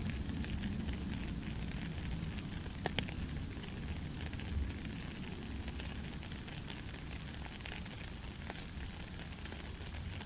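Steady white noise for lulling a baby to sleep: a low rumble under a hiss, with faint crackles and one sharp click about three seconds in.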